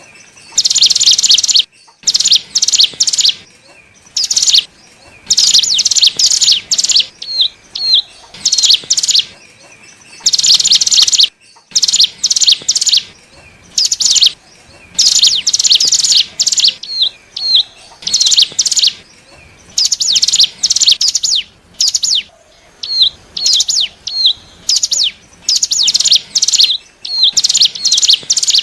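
Ciblek gunung (hill prinia) singing in repeated bursts of fast, high chattering notes, each burst about a second long, with single short down-slurred calls between them. This is a lure song used to draw wild birds of the same species.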